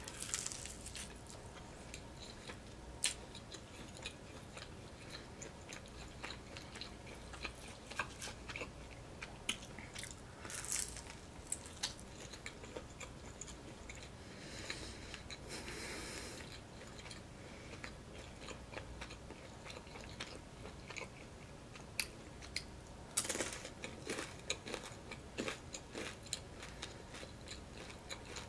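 Close-miked chewing and biting of a fried chicken samosa pastry, with scattered crisp crunches and mouth clicks and a few louder crunches along the way.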